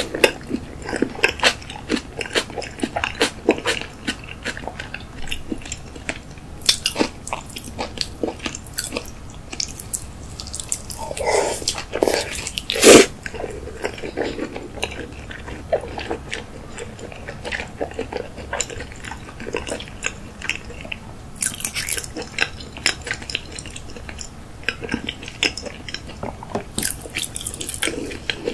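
Close-miked wet chewing of raw salmon nigiri sushi: many small smacking clicks from the mouth. One louder sound stands out about halfway through.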